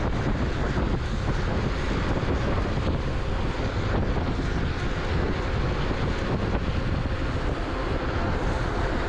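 Steady wind rushing over the microphone of a camera on an electric bike ridden at speed, with tyre and road noise underneath.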